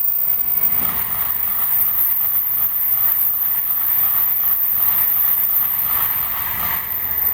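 Shinkansen train running along the station platform: a steady, loud rushing noise of wheels and air that holds without a break.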